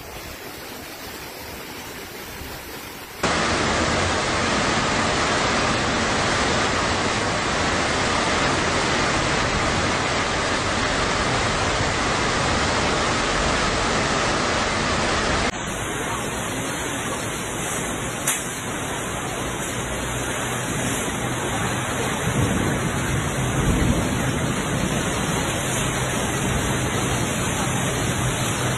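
Heavy storm rain and wind: a dense, steady rushing noise that jumps louder about three seconds in and changes character about halfway through, with a single sharp click partway through the second half.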